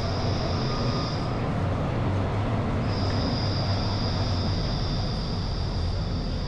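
Rail vehicle, most likely a city tram, running: a steady low rumble with a high whine that cuts out for about a second and a half shortly after the start, then returns.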